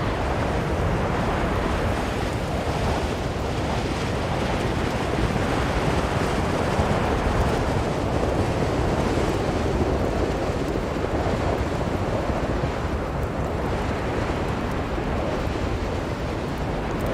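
Strong blizzard wind blowing steadily, a dense noise that swells and eases slowly.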